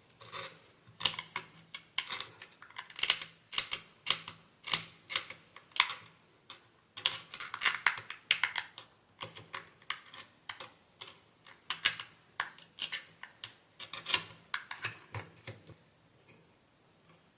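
A long run of irregular sharp clicks and taps from small hard objects being handled at an electronics workbench, stopping shortly before the end, over a faint steady low hum.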